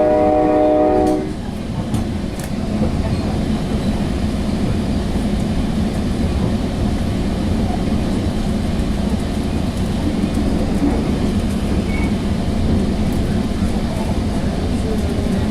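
Sounder commuter train's air horn holding a chord that cuts off about a second in, then the steady rumble of the train running on the rails.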